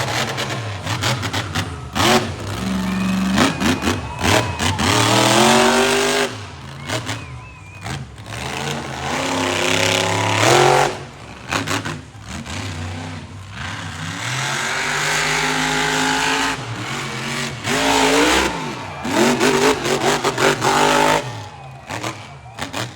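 Monster truck engine revving hard in repeated climbs, about five in all, each rising in pitch and then dropping sharply as the throttle comes off.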